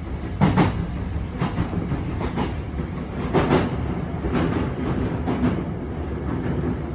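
Hankyu electric train running, heard from inside the front passenger car: a steady rumble with the wheels knocking over the rail joints roughly once a second.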